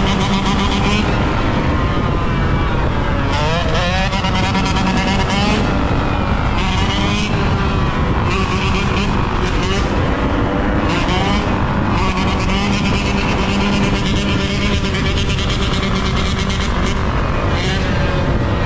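Yamaha YZ125 125cc two-stroke single-cylinder dirt bike engine under way, its pitch rising and falling several times as the throttle is worked and gears change, over a heavy rush of wind.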